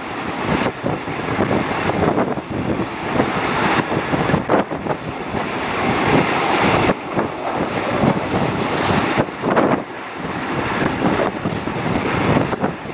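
Wind rushing and buffeting over a microphone held out of the window of a moving State Railway of Thailand local passenger train, over the train's running noise on the track. The level surges and dips unevenly.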